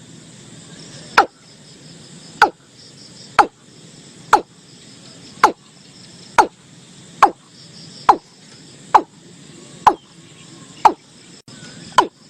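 Watercock calling: a run of short, sharp notes about one a second, each dropping quickly in pitch, over faint steady insect chirring.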